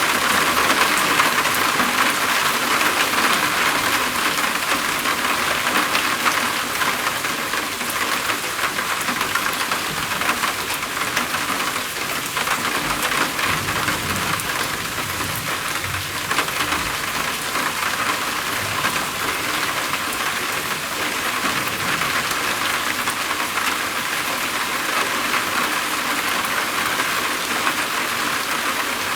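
Steady heavy rain drumming on a roof, a dense even patter. A faint low rumble of thunder comes about halfway through.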